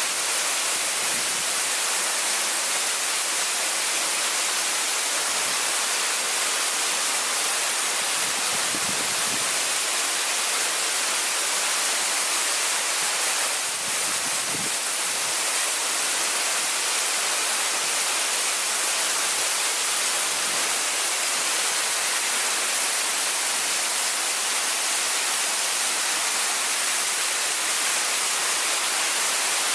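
Waterfall: the steady, even rush of falling water, a constant hiss heavier in the upper range than in the bass.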